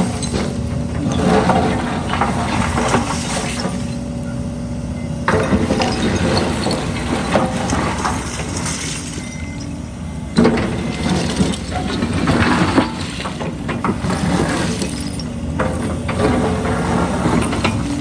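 Diesel excavator at work: the engine runs steadily under load, with repeated stretches of clattering and scraping as broken concrete rubble is moved.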